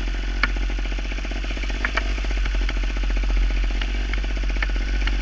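Gas Gas TXT trials motorcycle's two-stroke engine running steadily under the rider, with a few short, sharp clicks.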